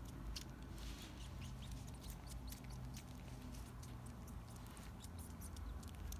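Kittens purring with a low steady rumble while they suck on their paws, with many small clicks from the sucking.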